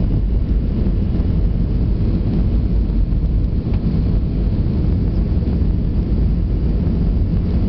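Airbus A320-200 cabin noise: a steady low rumble of the engines and airflow, even throughout.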